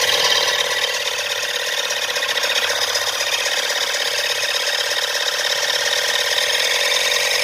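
12-volt battery-powered oil extractor pump running steadily, sucking engine oil up through the dipstick tube into a catch can.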